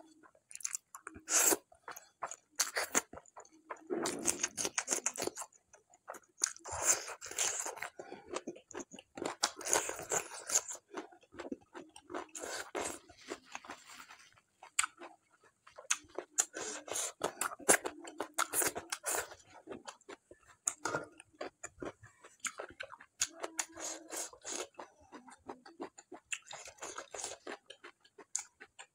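Close-miked chewing: wet, smacking mouth sounds and crunchy bites in irregular clusters of clicks, as a person eats food taken by hand.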